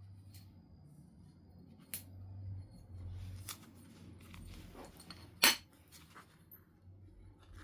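Stone clicking and ticking as a flint biface is worked, with one loud, sharp knapping strike about five and a half seconds in that detaches a flake.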